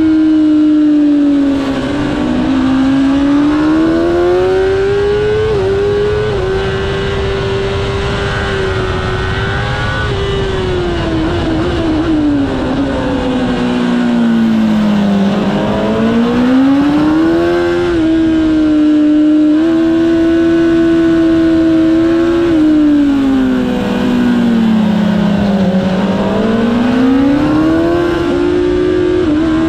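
Kawasaki ZX-10R's inline-four engine at high revs, heard from on board on a circuit lap. The engine note climbs under throttle, steps at gear changes, and drops low twice as the rider slows for corners, then climbs again.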